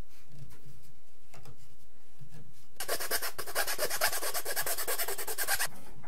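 Wood being worked by hand with a rasp or file, a run of rapid scraping strokes lasting about three seconds that starts near the middle and stops abruptly.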